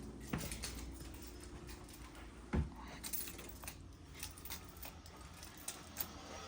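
Scattered light clicks and taps of handling, with one louder knock about two and a half seconds in.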